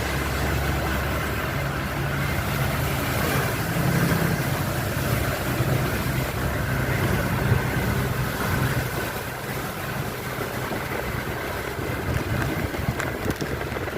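A vehicle engine running steadily with a low hum, strongest a few seconds in, over a steady hiss.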